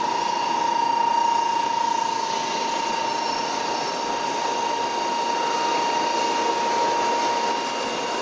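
Interior running noise of an N700 series Shinkansen passenger car: a steady rushing noise with a constant high-pitched whine.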